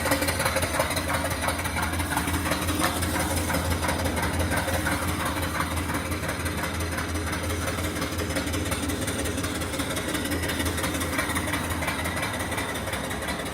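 Small steam engine running steadily, its exhaust steam chuffing up the boiler's smokestack in a fast, even beat.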